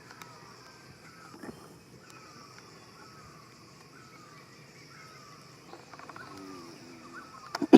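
Outdoor ambience: a steady insect hiss with a faint falling call repeating every half second or so. Near the end comes a sharp knock, the loudest sound here.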